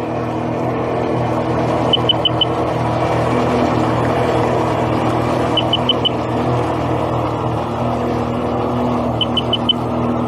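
An engine running steadily, with groups of four quick high-pitched beeps repeating about every three and a half seconds.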